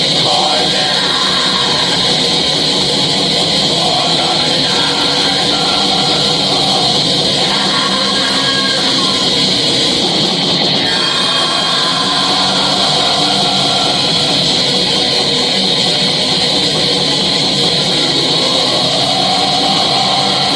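Metal band playing in a rehearsal, its distorted electric guitars forming a dense, loud, unbroken wall of sound.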